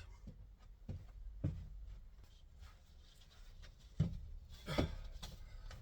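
A few scattered knocks and clunks of things being handled and set down, the sharpest about four seconds in, over a low steady rumble.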